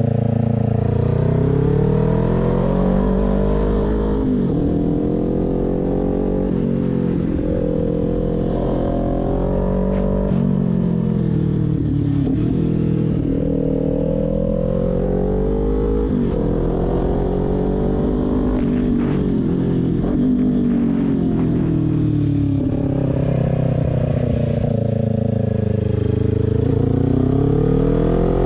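Kawasaki Ninja 400 parallel-twin engine under way, its revs climbing and dropping again and again as the bike accelerates out of and slows into a string of tight bends, over a steady low rumble.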